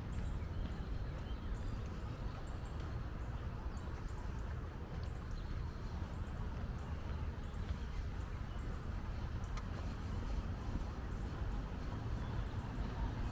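Outdoor ambience: a steady low rumble with faint, brief bird chirps above it.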